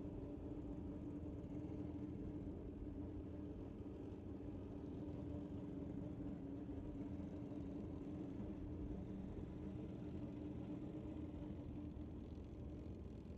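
Faint, steady low rumble with a constant hum, with no revving or launch.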